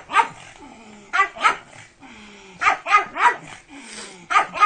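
Pug barking in short, sharp barks, about eight in quick clusters of one, two, three and two.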